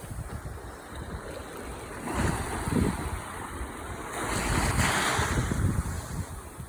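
Ocean surf breaking and washing up the shore, with wind buffeting the microphone. The surf swells up about two seconds in and again around five seconds.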